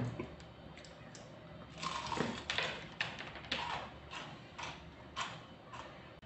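A thump at the start, then from about two seconds in a run of crisp crunches, roughly two a second, trailing off near the end: someone biting and chewing a piece of crispy Korean fried chicken.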